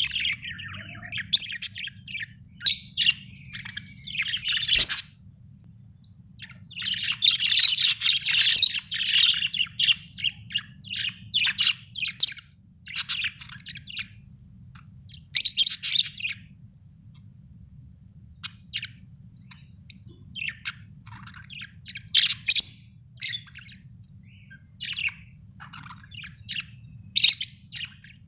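Birds chirping and chattering in irregular bursts of high, quick calls, thickest about seven to ten seconds in, over a faint steady low hum.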